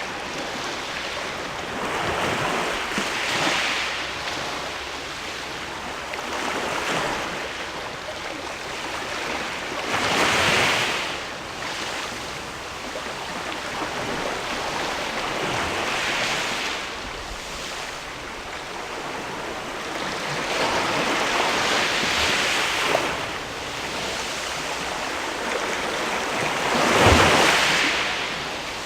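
Sea waves washing against a rocky shore, swelling in about six surges a few seconds apart, the loudest near the end.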